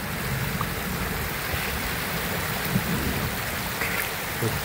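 Heavy rain pouring steadily, with a dense, uneven low rumble of drops striking right at the phone's microphone.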